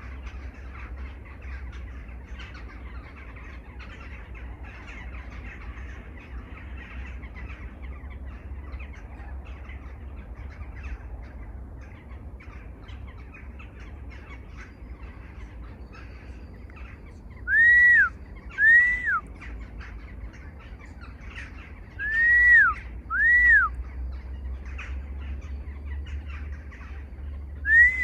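Wild birds calling in a steady chorus of chatter. In the second half, one bird gives a loud two-note whistled call, each note rising and then falling, repeated about every five seconds.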